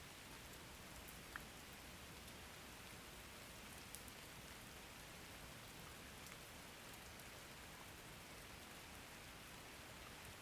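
Faint, steady rain: an even hiss of falling rain, with two sharper drop ticks, one about a second and a half in and another near four seconds.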